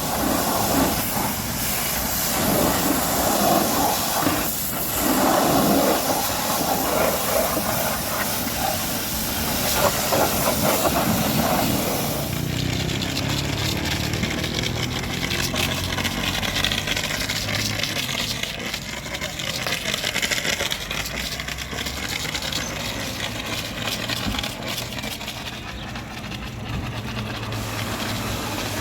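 High-pressure water spray hissing steadily against a car's bodywork. About twelve seconds in, the sound turns duller, losing much of its sharp top.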